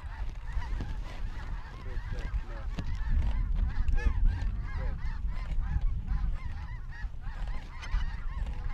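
A large flock of snow geese calling at once: a dense, overlapping chorus of short honks, over a steady low rumble.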